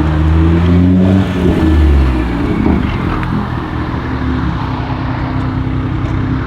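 BMW 440i Gran Coupe's turbocharged inline-six, fitted with a catless downpipe and M Performance exhaust, running with a deep, loud exhaust note for the first couple of seconds, then settling to a steadier, lighter note.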